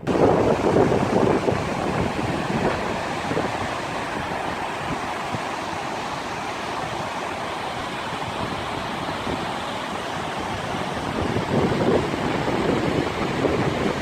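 Ocean surf washing onto the shore, a steady rush of water with wind, swelling louder just after the start and again about 11 to 13 seconds in.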